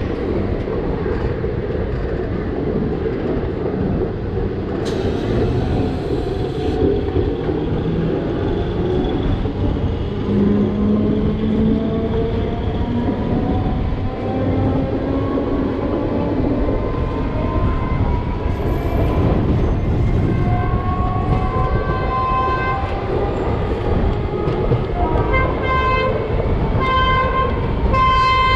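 Train running at speed with a continuous rolling rumble, a pitched drive whine slowly rising as it gathers speed, then a string of short horn blasts in the last several seconds.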